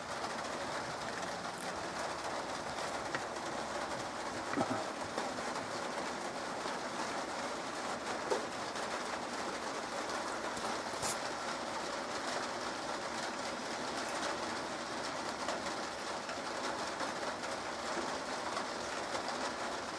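Light rain falling: a steady, even hiss of drops, with a few louder single ticks now and then.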